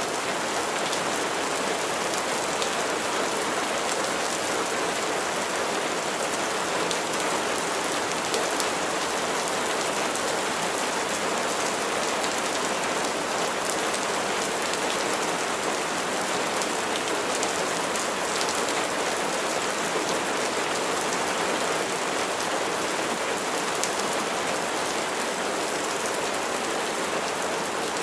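Steady rain falling on a surface, with a constant hiss and faint scattered drop ticks.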